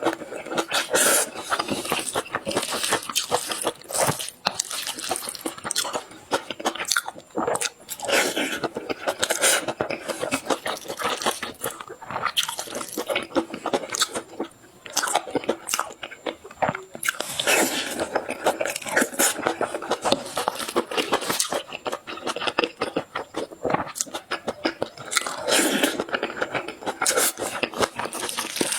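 A person eating close to the microphone: repeated crunchy bites and chewing, with irregular clicks and short bursts throughout.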